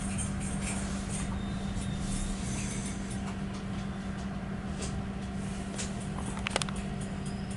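Steady low hum of a passenger train standing at a station platform, with scattered light clicks and a short cluster of sharp clicks about six and a half seconds in.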